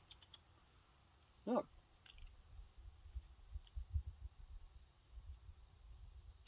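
Faint outdoor ambience: a steady high-pitched insect drone with a low, uneven rumble beneath it and a few faint ticks.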